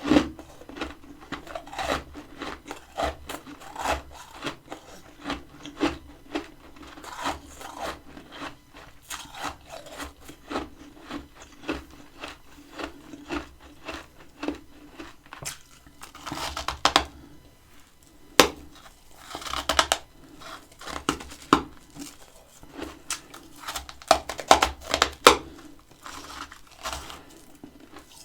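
Close-miked crunching and chewing of freezer frost: a run of irregular crisp crunches, with louder bites in the second half.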